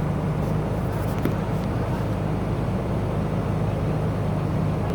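Car driving on a highway: a steady low drone of engine and road noise, with a few faint clicks about a second in.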